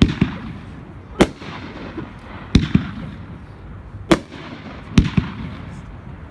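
500-gram consumer fireworks cake (Mammoth Strobe) firing its shots, giving sharp bangs about every one to one and a half seconds, some with a short echo after.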